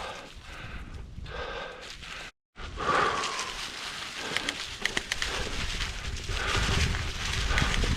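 Bicycle riding along a dirt woodland trail: a steady rumbling noise with scattered knocks and rattles. The sound cuts out completely for a moment a little over two seconds in.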